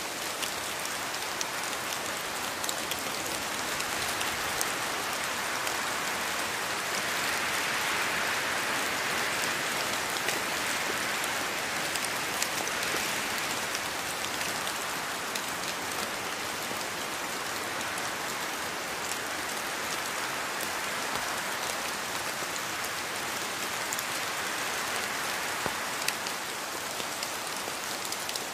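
Steady rain falling in a rainforest, a dense even hiss with scattered individual drops ticking throughout, swelling slightly for a few seconds near the middle.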